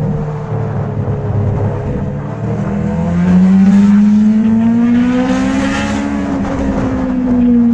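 Motorcycle engine running while riding. Its pitch climbs as it accelerates from about three seconds in, peaks around six seconds and then eases off, over a steady low rumble.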